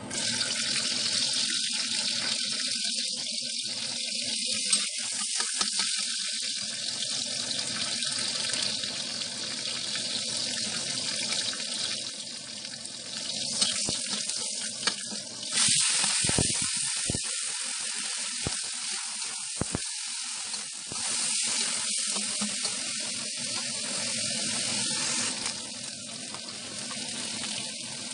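Chopped spices and aromatics sizzling in hot oil in a wok, stirred with a metal ladle. The sizzling swells louder a few times, most sharply about halfway through.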